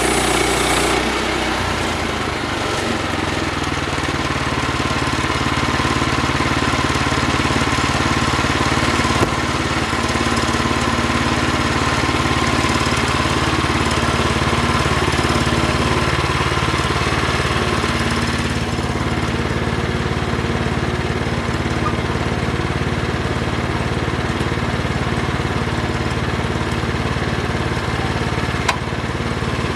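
An engine running steadily, its tone shifting about a second in and again around eighteen seconds in.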